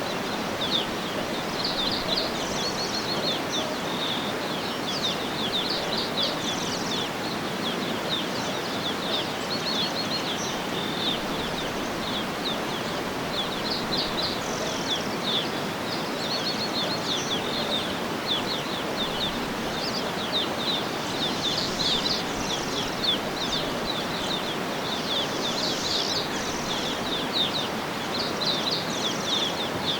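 Songbirds chirping in quick, short high notes again and again, over a steady rushing background noise.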